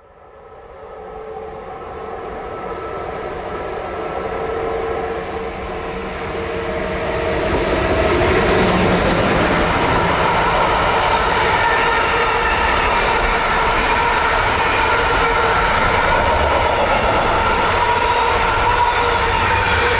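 Train approaching and passing, growing louder over about the first eight seconds and then holding steady, with a whine of several steady tones over the rumble of the wheels.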